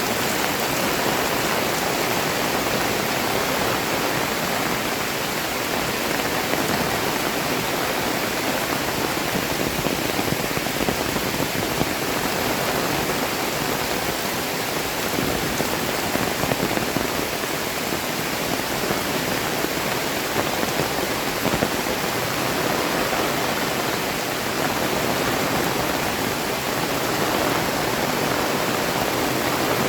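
Heavy tropical rain pouring steadily, a dense even hiss of downpour.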